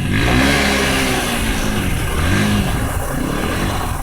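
Dirt bike engine revving up and easing off twice, its pitch climbing and falling in two swells.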